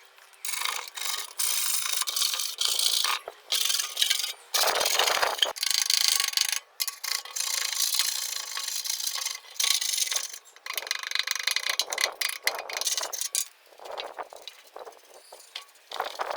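Repeated rasping strokes of a hand tool cutting or abrading material, coming in irregular runs with short pauses, starting about half a second in and thinning out near the end. No motor runs.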